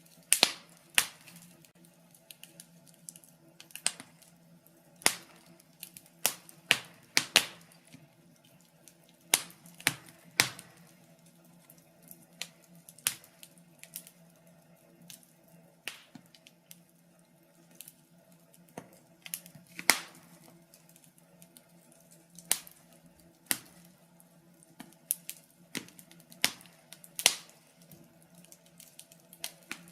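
Wood fire crackling in a fireplace: irregular sharp pops and snaps, sometimes two or three in quick succession, over a faint steady low hum.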